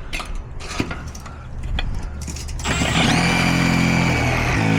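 Power drill driving a large screw through a metal mounting strap: a few clicks of handling, then the drill motor runs steadily with a high whine for about two seconds and stops just before the end.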